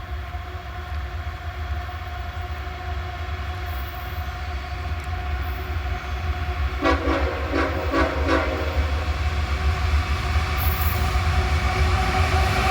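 Diesel freight locomotives approaching with a loaded coal train, a steady low rumble growing louder. About seven seconds in, the locomotive horn gives three short blasts.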